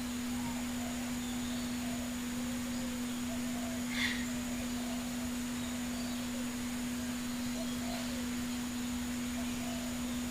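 A steady low hum: one unchanging tone over an even hiss, with a short click about four seconds in.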